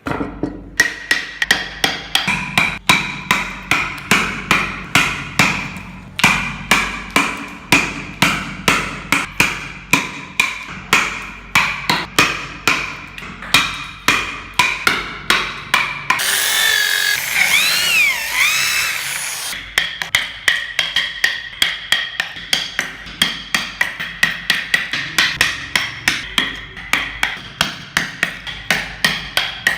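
A wood-carving chisel struck with a mallet in a steady rhythm of about two sharp, ringing blows a second. Midway the blows give way for about three seconds to a continuous whirring noise whose pitch wavers, then resume.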